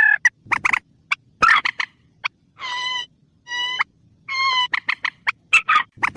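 Recorded calls of a mandar, a rail of the swamphen and moorhen kind, played as a hunting lure. It gives rapid clucking, clicking notes, then three drawn-out nasal honks of about half a second each near the middle, then more clucking.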